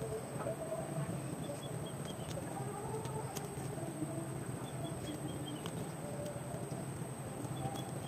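Quiet outdoor ambience: a bird repeats a short run of four or five falling notes every few seconds over a steady high-pitched whine, with faint light clicks from a nylon gill net being handled.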